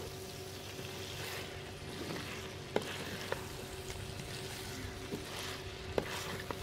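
Chicken and fried bitter gourd sizzling in a clay pot while a wooden spoon stirs and scrapes through it. A few sharp knocks of the spoon come about three seconds in and again near the end.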